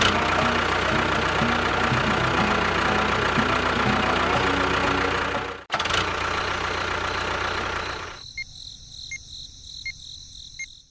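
A motor running steadily. It cuts off suddenly about halfway through, starts again, then drops to a much quieter sound with faint regular ticks about twice a second.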